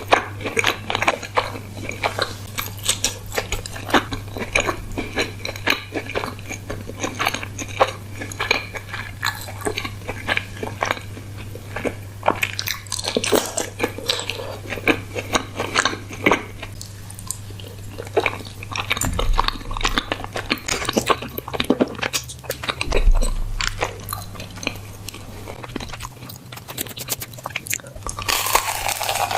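Close-miked eating: a person biting and chewing food, with many irregular sharp bites and mouth sounds over a steady low hum.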